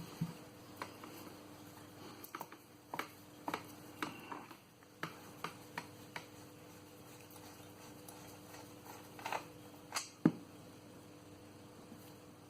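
Scattered light metallic clicks and taps of a spanner and hand working loose the sump drain plug on a Land Rover 2.25 diesel, over a faint steady hum.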